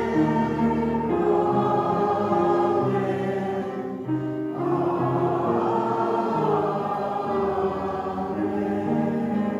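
Church choir singing a hymn with accompaniment, held notes changing in steps.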